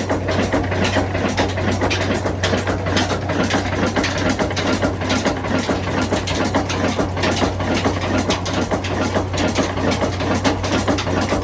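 Ruston diesel engine running steadily: a constant low hum under a dense, rapid clatter of knocks.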